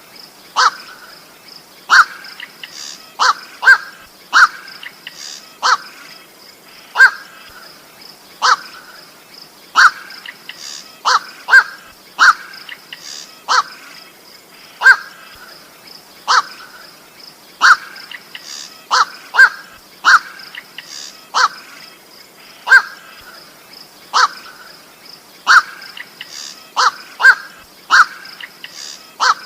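Koak bird giving short, harsh single 'koak' calls, repeated roughly every second, sometimes two in quick succession, as used to lure birds. A faint steady high-pitched tone runs underneath.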